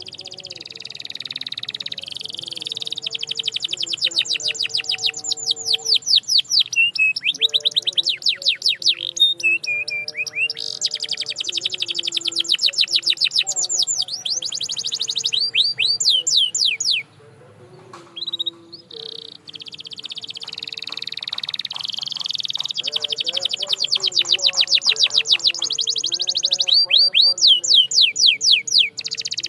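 Domestic canary singing: long, fast trills of rapidly repeated sweeping notes. The song breaks off briefly a little past halfway, then starts again.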